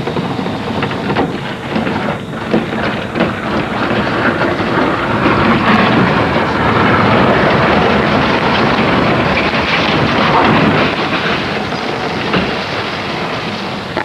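Plastic portable toilet being dragged on a chain behind a moving truck: loud rumbling and scraping with scattered knocks, building to its loudest in the middle, then easing off.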